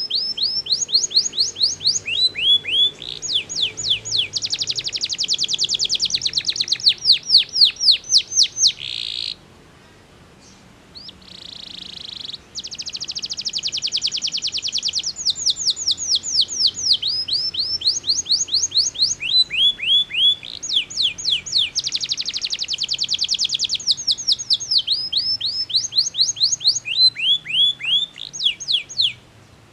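Canary singing long rolling phrases: tours of fast, evenly repeated down-slurred notes that change pattern every few seconds. The song breaks off for a couple of seconds about ten seconds in, then carries on.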